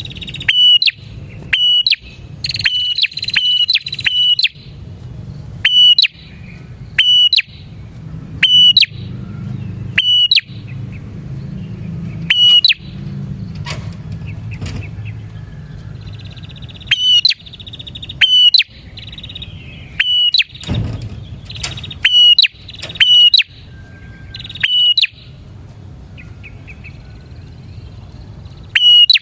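Several prenjak (prinias) calling in a busy chorus: loud, sharp high chip notes repeated about once a second, with softer chattering trills between them. A low steady hum runs underneath.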